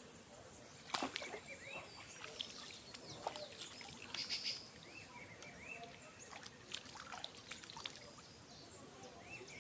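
A small fish being released drops into the river with a short splash about a second in, followed by light water and handling noises. Birds chirp repeatedly in short rising-and-falling calls over a steady high-pitched insect whine.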